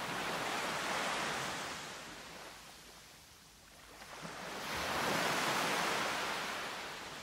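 Ocean waves washing in, two swells that rise and fall about four to five seconds apart.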